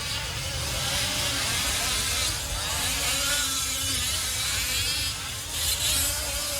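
Several 1/5-scale gas RC race trucks with small two-stroke engines buzzing as they race. The engine pitch rises and falls as they rev up and ease off.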